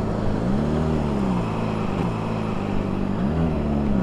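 Honda CBR600RR's inline-four engine running at low road speed over wind noise. Its pitch swells up and back down as the throttle is opened and closed about a second in, does so briefly again near the end, then starts to climb.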